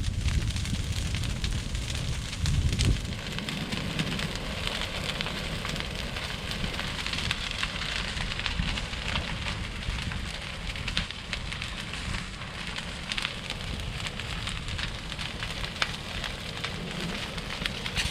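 Large brush pile burning: a steady rushing hiss of flames with frequent sharp crackles and pops. Wind rumbles on the microphone during the first few seconds.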